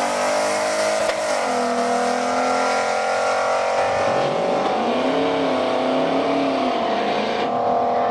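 A race car engine running hard at high rpm, a steady pitched tone with hiss over it. The pitch dips briefly about a second in and sags again around four to six seconds in.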